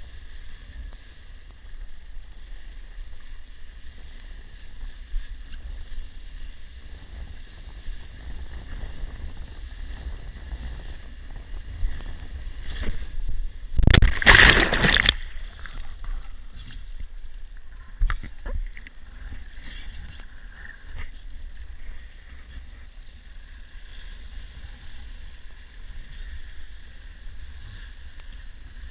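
Wind rumbling on the microphone over surf, with one loud rush about halfway through.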